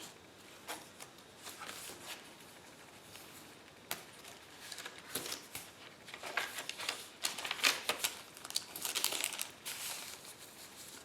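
Paper rustling and crinkling as the pages and paper inserts of a handmade mixed-paper journal are handled and turned. The rustling comes in irregular bursts and is busiest in the second half.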